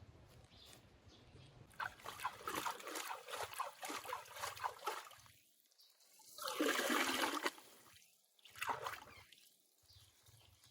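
Water pouring and splashing in several pours: an uneven, splashing pour from about two seconds in, a louder steady stream around the middle, and a short splash near the end.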